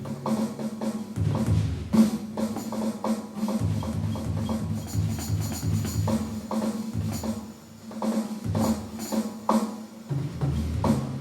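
Drums played with a timpani-type sound: quick strokes of low, pitched booms moving between notes, with lighter, sharper hits on top.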